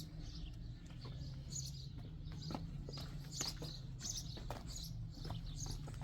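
Birds chirping in short, scattered calls, with a few faint clicks and a steady low hum underneath.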